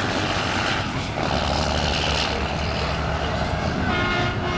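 Diesel semi-truck engines running loudly and steadily at a truck drag strip. A higher pitched tone with several overtones joins near the end.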